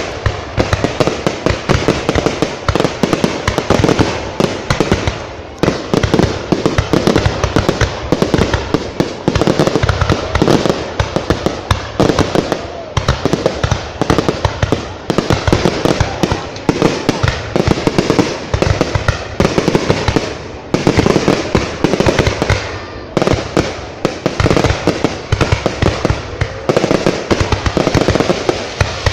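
Fireworks display: a dense, rapid barrage of shell bursts and bangs, many a second, easing briefly a few times.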